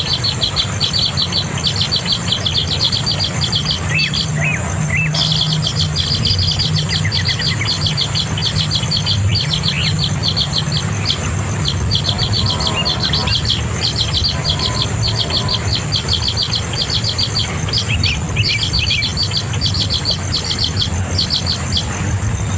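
A bird calling in long runs of fast, repeated high chirps, several notes a second, with short breaks, over a steady low rumble.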